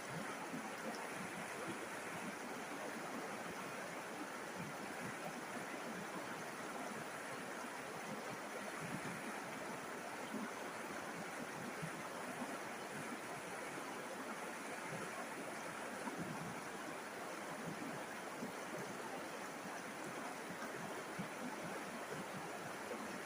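River water rushing and babbling steadily, a continuous even wash of flowing water.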